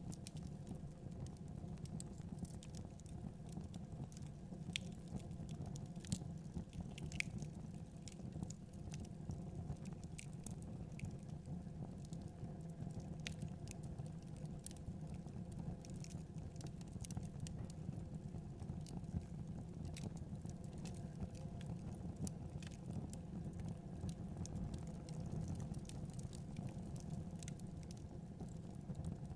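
Wood fire crackling in a fireplace, with irregular sharp pops and snaps over a low, steady rumble.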